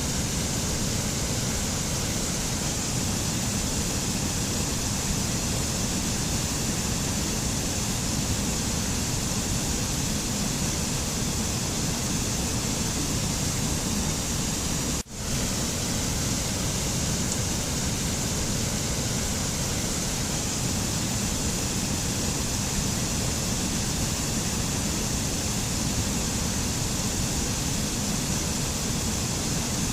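Steady rushing noise of a mountain nature ambience recording, even and unchanging, with a momentary dip in level about halfway through.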